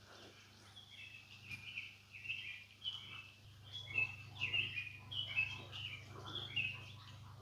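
A bird singing a run of short chirping notes, about two a second, over a steady low hum.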